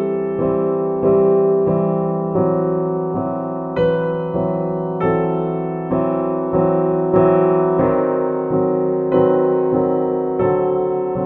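Slow solo piano music: single notes and chords struck about once a second, each ringing out and fading.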